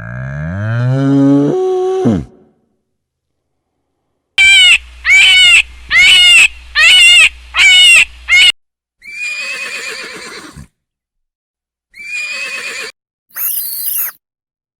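A string of different animal calls one after another: a low call rising steeply in pitch, then six loud repeated calls in quick succession, then a few rougher calls and a short high squeal.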